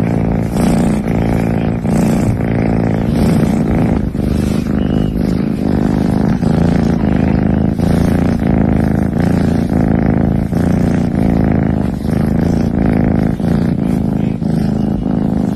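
A cat purring loudly right at the microphone: a steady rumble that swells and eases in an even rhythm.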